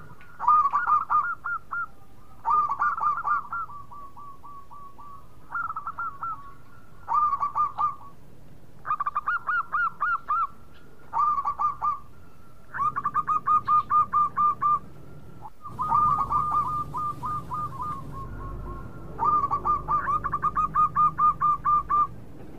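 Zebra dove (perkutut) cooing: about eight phrases of quick staccato notes, each phrase a second or two long, with short pauses between.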